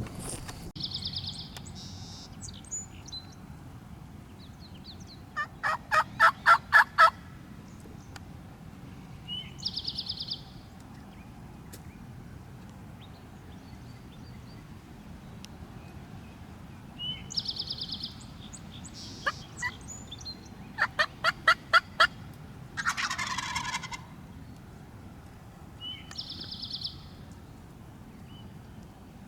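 Wild turkey sounds: two loud runs of evenly spaced yelps, about six and twenty-one seconds in, and a falling, rattling gobble-like call near twenty-three seconds. A songbird's short, high trill repeats four times, several seconds apart.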